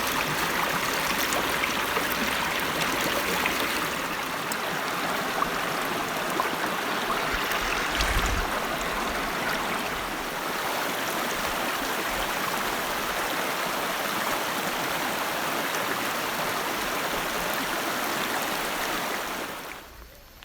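Mountain river rushing steadily over rocks, a continuous even rush that drops away abruptly near the end.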